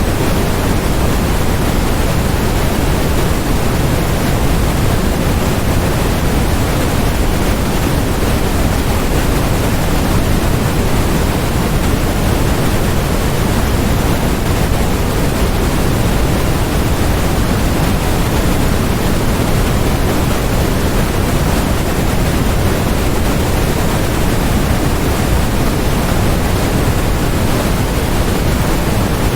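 Steady generated white noise: an even, unchanging hiss with more weight in the low end than the highs.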